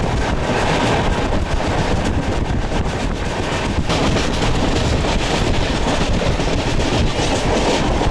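Passenger train running, heard from on board: a steady, loud rumble and rush of the moving carriage, with wind on the microphone.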